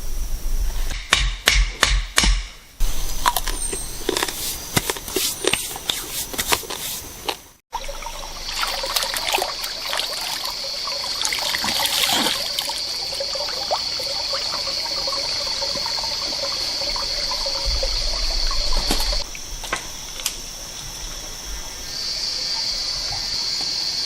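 A run of sharp knocks and clicks for several seconds, then, after a cut, water trickling steadily under a constant high-pitched insect drone.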